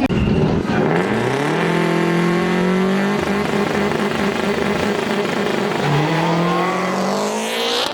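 A car engine revving hard. Its pitch climbs about a second in and holds high, then drops briefly around six seconds in and climbs again, like a gear change under acceleration.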